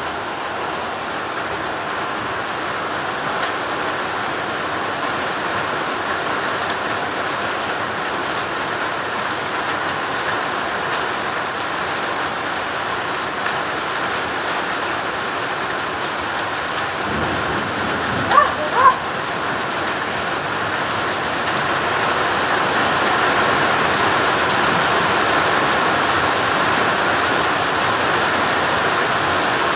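Heavy rain falling steadily, growing heavier about two-thirds of the way through. About 18 seconds in, two short pitched sounds stand out above the rain.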